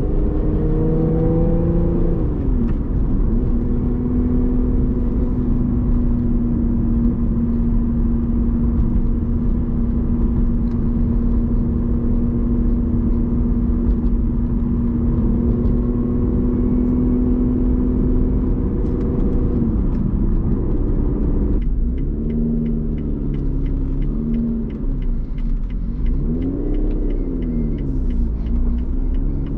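Lotus Evora GT's supercharged 3.5-litre V6 with titanium exhaust, driving on the street in a manual gearbox. A gear change around three seconds in is followed by a long stretch at steady revs. The revs fall at about twenty seconds, and in the last several seconds they rise and fall repeatedly.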